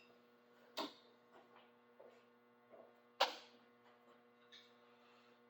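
Snare drum struck twice, a medium stroke and then a harder one about two and a half seconds later, each with a crisp attack and short ring, plus a few faint taps in between. A steady electrical hum runs underneath.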